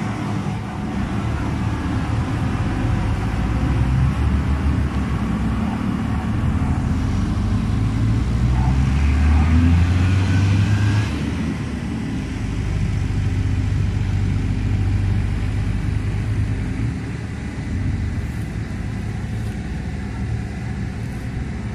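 Heavy diesel harvest machinery running with a steady engine rumble. It grows louder about a third of the way in, as if working harder or coming closer, then eases back.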